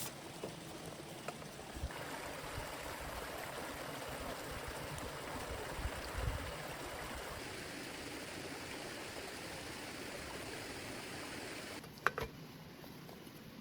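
Steady rush of heavy rain and running water. About twelve seconds in there is a sharp click, and the sound drops abruptly to a quieter hiss.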